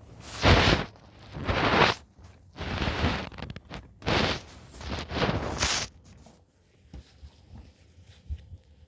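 A run of six rasping strokes, each under a second, ending about six seconds in, followed by a few faint ticks.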